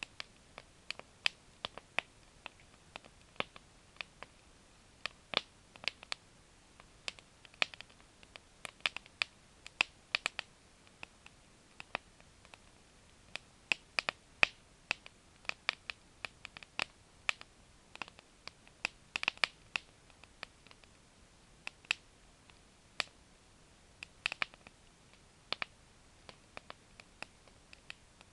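Campfire crackling: burning wood giving irregular sharp pops and snaps, a few each second, over a faint steady background.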